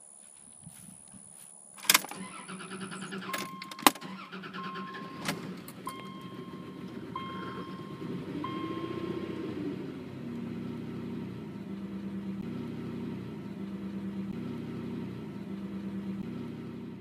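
A car: two sharp bangs about 2 and 4 seconds in, a beeping chime repeating several times, then the engine running steadily, its pitch rising and falling once about midway.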